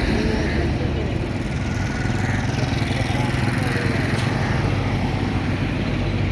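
Busy road traffic: engines of trucks, buses and motorcycles running together in a steady mix, with a low, steady engine drone under it.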